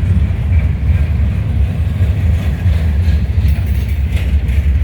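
Heavy freight train of loaded gondola cars rolling past close by, a loud, steady low rumble.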